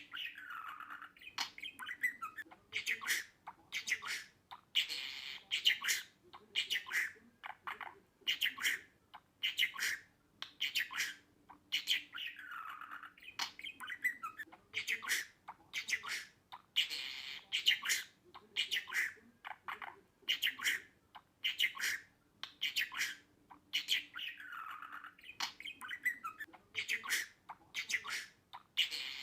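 Budgerigar chirping and squawking in quick, sharp calls, a few of them falling in pitch. The sequence seems to repeat about every twelve seconds, as if looped.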